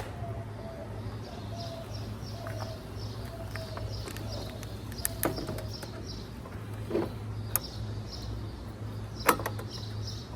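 A bird chirping over and over, about two short calls a second, over a steady low hum, with a few sharp clicks of the plastic headlight housing and bulb parts being handled.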